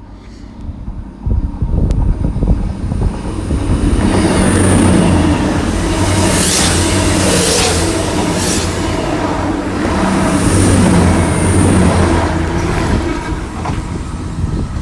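CrossCountry Voyager diesel multiple unit passing, its underfloor diesel engines running over a steady rumble. It builds up over the first few seconds and stays loud, with a high whine and a few sharp wheel clicks over the rail, then eases slightly near the end.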